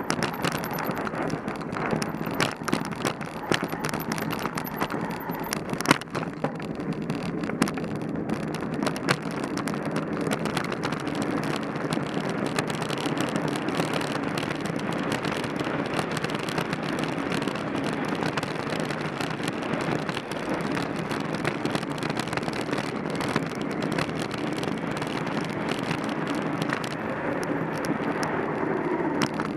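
Mountain bike being ridden over a rough trail: steady tyre and riding noise with frequent rattles and knocks from the bike, one sharper knock about six seconds in.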